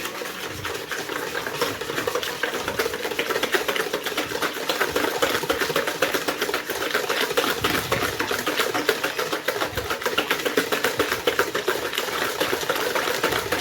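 Balloon whisk beating sugar and margarine by hand in a bowl: a fast, steady clatter of the wires against the bowl.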